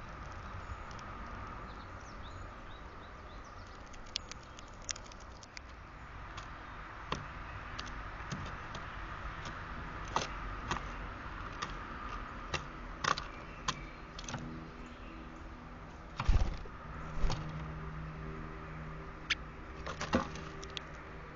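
Scattered sharp taps and knocks of birds pecking and landing on a bird feeder, with a louder thump about sixteen seconds in. A low steady hum comes in over the last few seconds.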